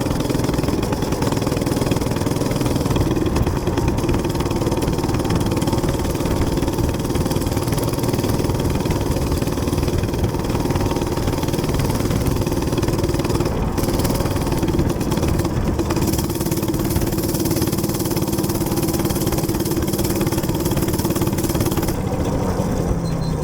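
Small gas minibike engine held at a steady high speed while riding, with wind rushing over the microphone. Near the end the engine drops off and slows.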